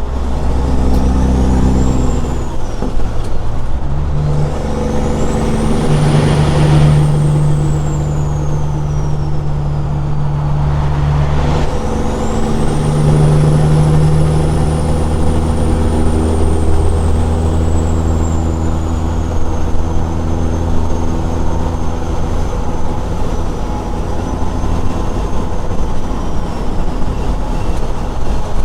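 Straight-piped Caterpillar 6NZ inline-six diesel in a Peterbilt tractor pulling under load, with two breaks in the engine note as gears change, about four and twelve seconds in. A thin high whistle climbs after each shift and slowly falls away.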